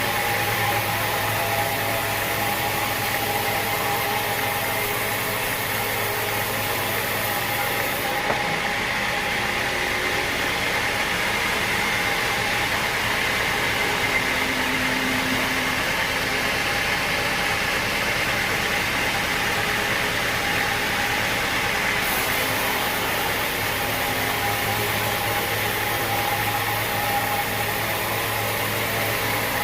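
Sawmill machinery running steadily, a continuous mechanical hum and whine without any distinct cuts or impacts.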